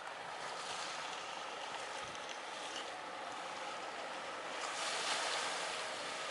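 Steady wind and sea noise at the shore, swelling for a couple of seconds near the end.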